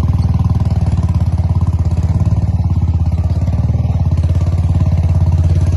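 Motorcycle engine running steadily, a low, rapid, even pulsing with no change in engine speed.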